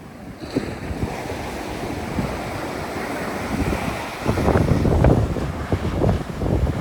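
Ocean surf washing on the shore with wind buffeting the microphone, growing louder and gustier about four seconds in.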